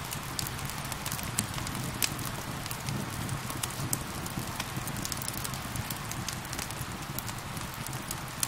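Wood fire crackling with many sharp pops and snaps, one louder pop about two seconds in, over a steady hiss of falling rain.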